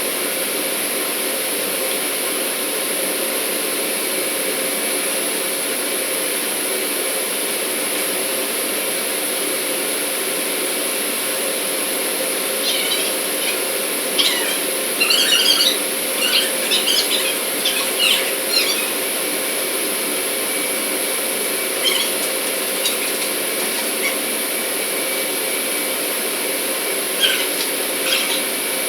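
Steady industrial machinery noise, a constant hum and hiss. A cluster of short, high-pitched squeals comes about halfway through, and a few more near the end.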